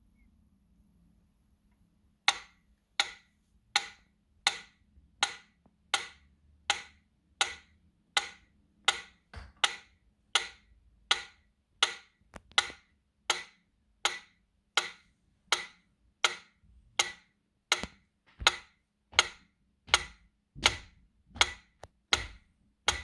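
Steady, evenly spaced sharp knocks or ticks coming from a book, about four every three seconds, starting about two seconds in.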